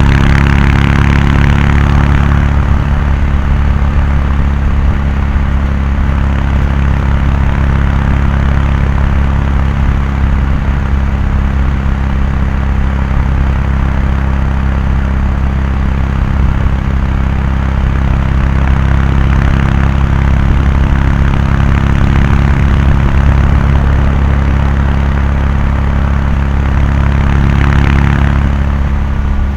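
Kawasaki Meguro K3's air-cooled 773 cc parallel-twin exhaust at a steady highway cruise, the engine speed holding constant. A rushing noise swells briefly near the start and again near the end.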